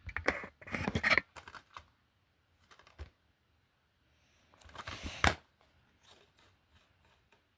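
Cases from a film and TV collection being handled: clicks, taps and rustling as they are picked up and moved. There are two busier bursts of handling, one at the start and one about five seconds in, with light ticks between them.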